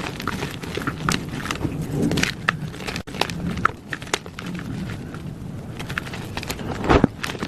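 Plain gym chalk being crushed: a run of irregular dry crunches and crackles, with the heaviest crunch near the end.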